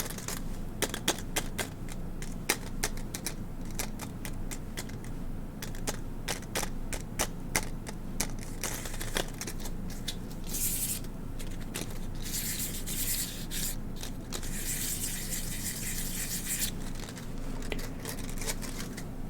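Nicotine gum and its packaging handled close to the microphone for ASMR: many sharp crackles and clicks, with bursts of scratchy hiss about ten seconds in and again from about twelve to sixteen and a half seconds.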